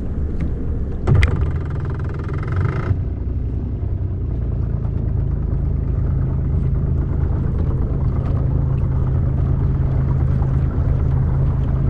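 A small boat motor running steadily, a low even drone, with a brief higher whirring sound over it from about one to three seconds in.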